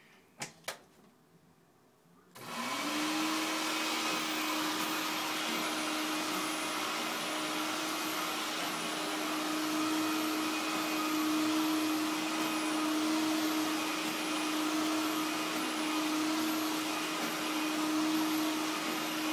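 Hoover Dial-A-Matic upright vacuum cleaner: two sharp clicks, then about two seconds in the motor switches on, spins up within a moment to a steady whine and keeps running evenly.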